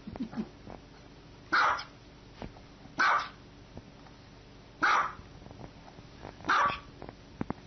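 A dog barking: four single, sharp barks spaced about one and a half to two seconds apart.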